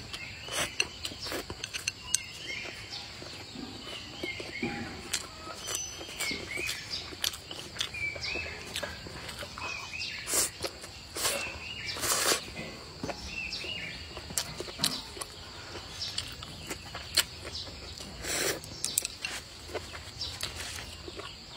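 A person chewing and eating a mouthful of rice and stir-fried food, with a run of sharp mouth clicks and smacks, a few louder ones along the way. Small birds chirp repeatedly in the background.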